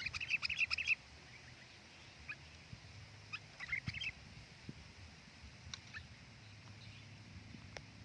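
Sooty-headed bulbul calling: a quick burst of chattering notes at the start, another short burst about three and a half seconds in, then a few single notes.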